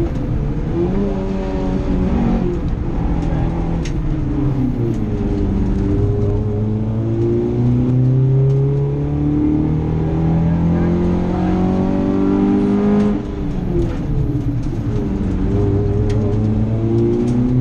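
Nissan Micra rally car's engine heard from inside the cabin, pulling hard along a stage with its pitch climbing steadily. The pitch dips briefly early on and drops sharply about three quarters of the way through, then climbs again.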